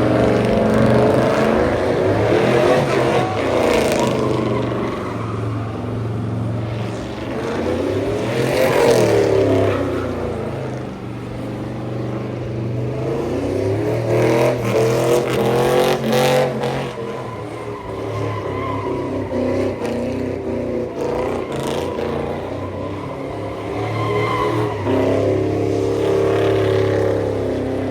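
Truck engines revving hard and easing off again and again, the engine note climbing and falling every few seconds.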